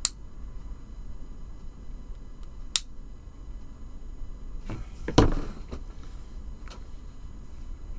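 Sharp clicks and a louder knock about five seconds in, with a few fainter ticks: small pins and a tool handled against the parts of a model helicopter's rotor hub as the pins are pushed in.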